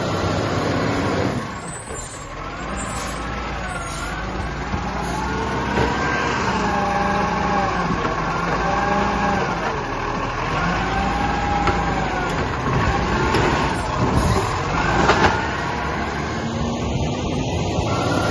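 Garbage truck running at the kerb, with a whine that rises and falls in pitch again and again, and a few sharp knocks about two thirds of the way through.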